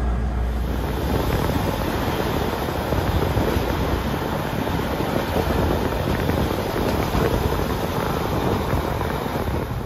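PESA Link diesel multiple unit running along the line at speed: a steady rushing of running and air noise, with a flickering low rumble. It takes over from a low cabin hum about half a second in.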